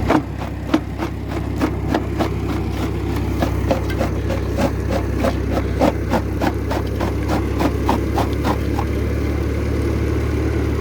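Old tractor engine running steadily while belt-driving a rock crusher that is crushing lava rock. Over it comes rapid knocking, about three a second, which fades out near the end.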